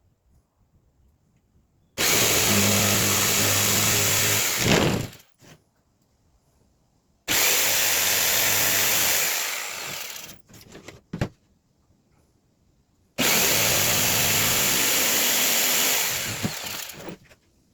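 Electric power saw cutting the end pieces off a wooden fence picket, three cuts in a row. Each run starts abruptly, lasts about three seconds, then dies away.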